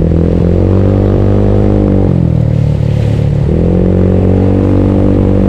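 Bored-up Yamaha Mio scooter's single-cylinder engine running under way. The pitch climbs, drops off about two seconds in as the throttle eases, then picks up again about a second later and holds steady.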